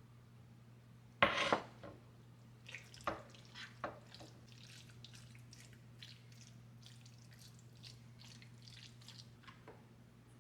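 Water splashing and dripping in a kitchen sink: a short splash about a second in, then a run of irregular drips and small splashes, over a steady low hum.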